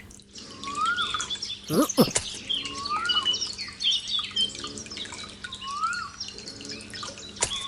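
Small birds chirping, with one call rising and falling that repeats about every two to three seconds. A water drop or two plops into water about two seconds in and again near the end.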